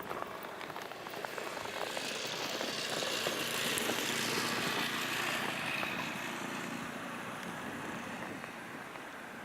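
A passing vehicle: a steady rushing noise that swells over a few seconds, peaks about halfway through and fades away.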